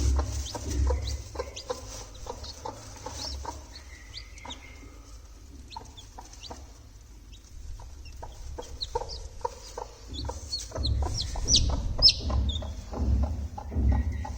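Broody hen clucking with many short, high, falling peeps mixed in, most likely her newly hatched chicks. A low rumble runs underneath, heaviest near the start and again in the last few seconds.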